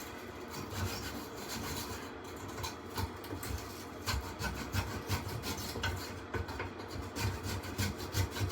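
Brush scrubbing the dirt-caked fins of a furnace blower wheel, in quick irregular scraping strokes.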